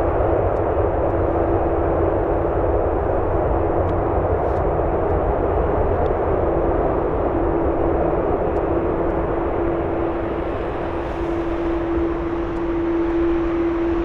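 Airbus A380's jet engines running: a steady, loud rush of noise with a steady hum-like tone in it, easing off a little about two-thirds of the way through.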